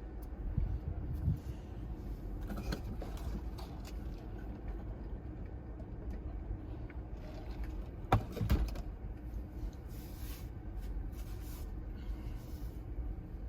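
Steady low rumble of typhoon surf and wind buffeting the microphone, with a few knocks, the loudest about eight seconds in.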